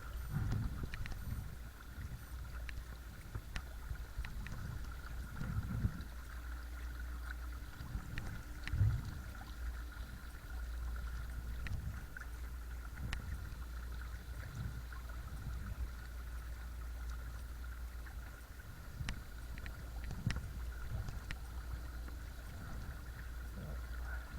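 Watersnake T24 12 V electric trolling motor running on a kayak: a steady whine over a low hum as the motor vibrates the plastic hull, with water against the hull and scattered small knocks.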